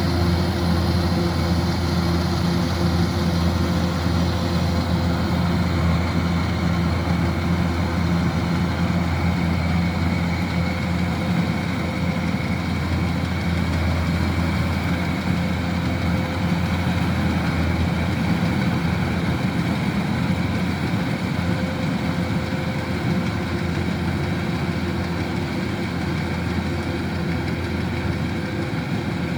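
Kubota DC-105X rice combine harvester's diesel engine running steadily, a low, even mechanical drone.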